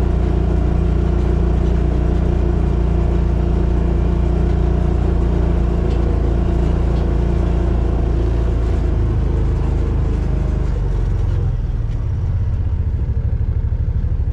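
Vehicle engine running steadily, then settling to a lower, pulsing note about eleven seconds in.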